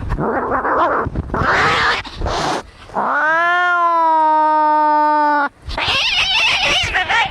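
Angry cats fighting: harsh hissing and growling, then one long yowl of about two and a half seconds that rises at the start and then holds its pitch before cutting off sharply, followed by more harsh hissing.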